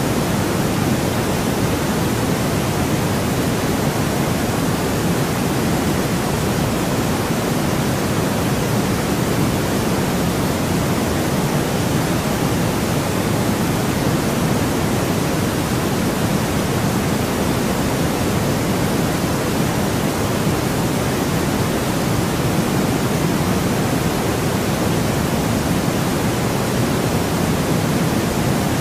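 Steady white noise, an even unbroken hiss with its weight in the lower range.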